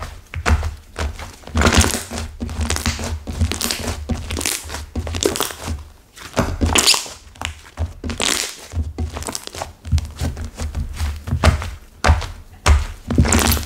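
Hands squeezing and folding a slime mixed with clay that has set hard, giving crinkly crackling and dull thunks in an irregular run of strokes.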